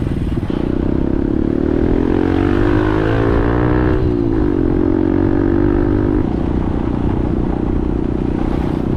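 Motorcycle engine accelerating, its pitch rising for a few seconds, then dropping sharply about four seconds in as it shifts up a gear, then running steadily.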